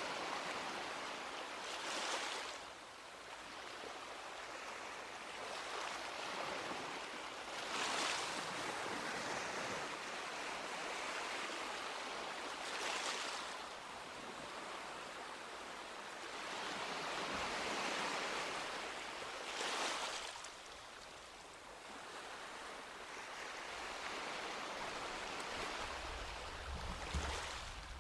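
Sea waves breaking gently on a beach. Each wave comes in as a brief swell of surf about every five to six seconds, with a steady wash between them.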